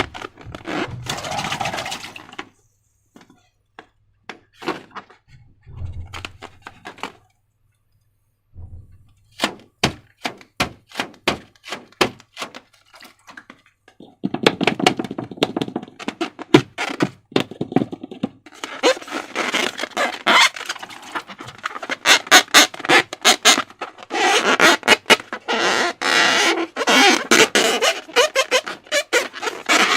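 Slime being worked by hand: a run of sharp sticky clicks and pops, then from about halfway on dense wet squelching and crackling as it is squished and stretched.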